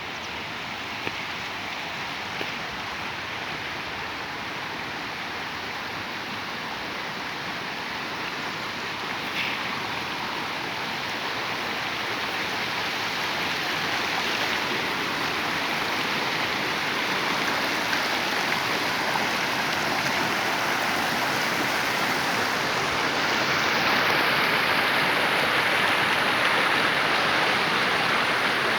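Waterfall's falling water making a steady rush that grows gradually louder.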